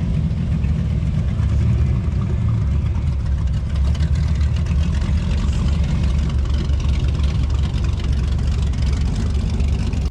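Car engine running with a steady, deep rumble.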